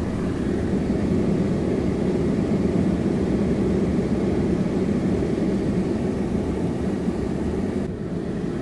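Tesla Model S cabin climate-control blower running at its top fan setting in recirculation mode: a steady rush of air heard inside the cabin. The higher part of the hiss dips briefly near the end.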